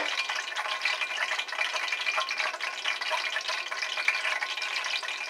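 Food frying in hot oil in a pan: a steady, dense crackling sizzle.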